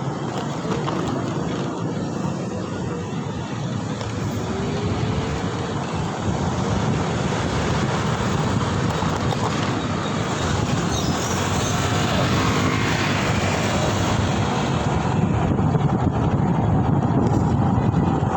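Steady wind rush on the microphone mixed with road traffic noise while riding along a road, growing a little louder toward the end.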